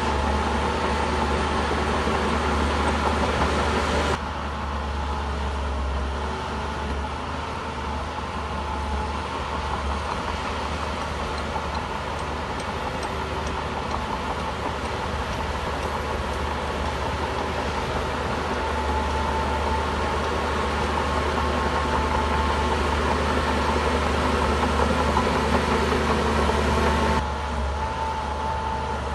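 Shantui bulldozer's diesel engine running steadily under work, with a strong low hum. The sound changes abruptly about four seconds in and again near the end.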